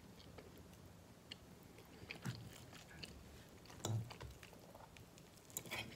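Faint chewing of a mouthful of spaghetti, with a few soft mouth clicks and knocks, the clearest about two and four seconds in and just before the end.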